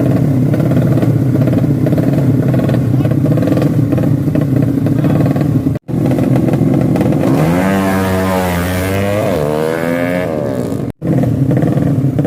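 200cc horizontal-cylinder ('sleep engine') motorcycle engine running at a steady fast idle, then, after an abrupt cut, revving up and falling back over a few seconds. A second abrupt cut brings back the steady running.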